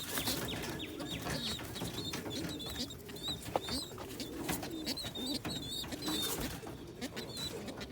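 Pigeons cooing in a loft, a low wavering murmur, with short high chirps and scattered light clicks from the birds moving.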